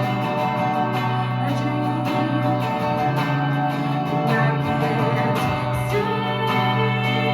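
A song played live: a woman singing over guitar, with steady sustained chords underneath.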